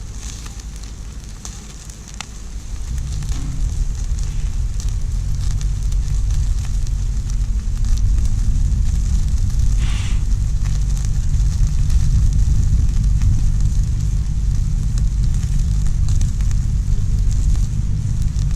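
Wood campfire crackling with scattered sharp pops over a steady hiss, under a low rumble that grows louder a few seconds in.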